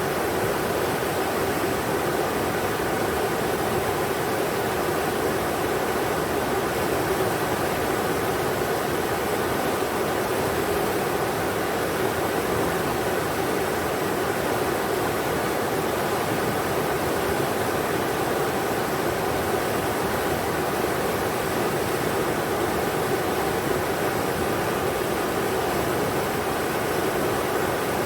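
Englishman River rushing over rocks, a steady even rush of water with no breaks.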